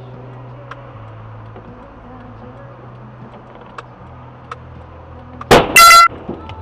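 Steady low vehicle running noise heard from inside a car, with a few faint clicks. About five and a half seconds in, a sudden very loud bang, then a short, loud, pitched blast like a car horn lasting under half a second.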